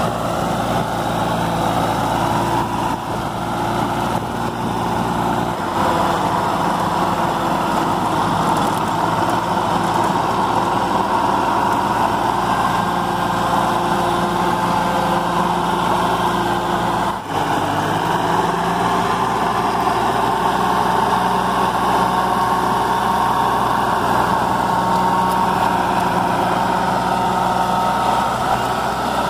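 Sonalika DI-20 mini tractor's diesel engine running steadily, with a momentary dip in level about seventeen seconds in.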